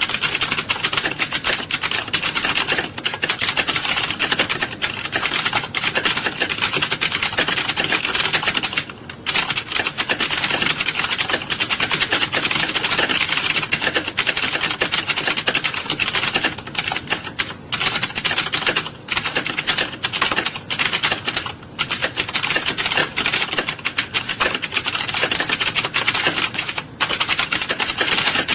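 A dense, continuous clatter of many people typing on keyboards at once in a typing class, with a few brief lulls.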